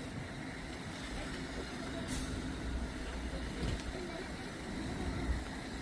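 Low, steady rumble of vehicles and engines outdoors, with a short hiss about two seconds in.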